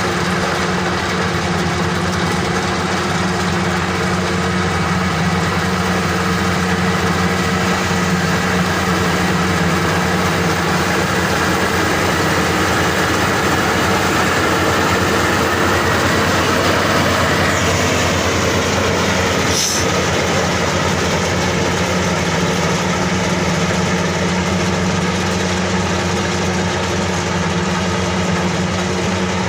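Maxxi Bimo 102 SS rice combine harvester running steadily, engine and machinery working. There is one sharp click about twenty seconds in.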